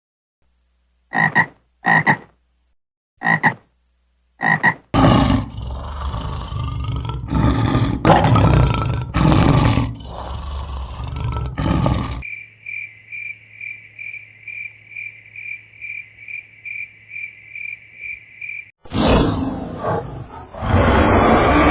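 A run of animal calls: four short calls in the first few seconds, then several seconds of rough, noisy calling. After that comes a regular pulsing call, about two and a half pulses a second, and then a loud rough call near the end.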